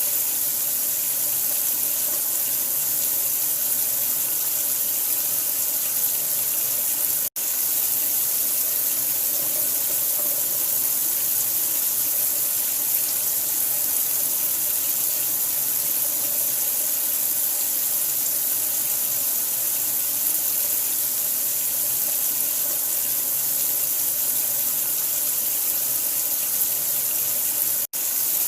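Steady hiss of running water, played as a sleep sound for newborns. It cuts out for an instant twice, about seven seconds in and near the end.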